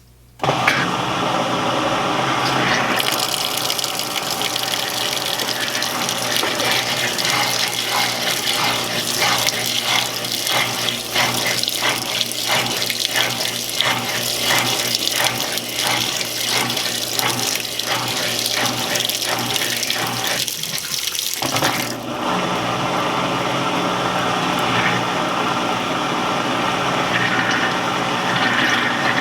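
Admiral (Whirlpool-built) belt-drive top-load washing machine starting its spray rinse: the motor comes on suddenly and water sprays into the tub with a steady hiss and hum. Through the middle the spray pulses regularly, a little over once a second, with a brief dip near the end before it runs on steadily.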